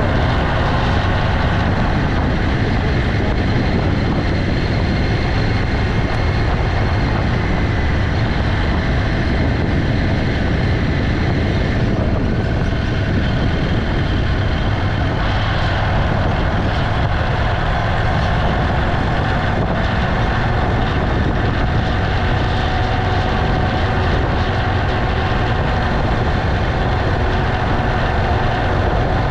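Motorcycle engine running steadily while riding, with a heavy low rumble of wind buffeting the microphone.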